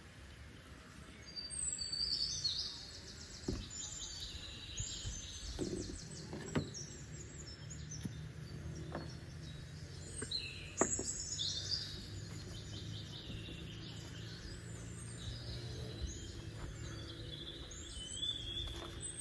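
Birds chirping and singing, with a few sharp knocks and a low steady hum from about eight seconds in.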